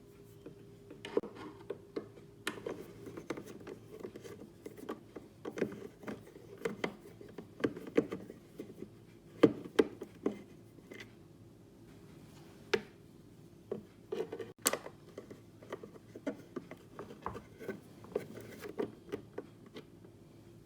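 Irregular clicks, taps and rubbing of hard plastic parts being handled and pried apart while a vacuum cleaner's shell is taken off, with one sharper knock about halfway through. A faint steady hum runs underneath.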